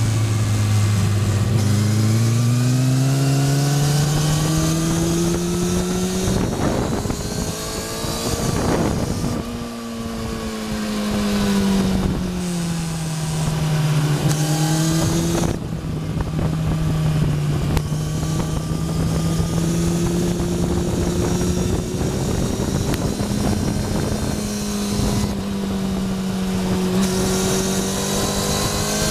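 Onboard sound of a sport motorcycle's engine on a race track. It rises in pitch as it accelerates through the first few seconds, drops back about ten seconds in and again a little later as it slows for corners, then holds a fairly steady note. Wind rush runs under it throughout.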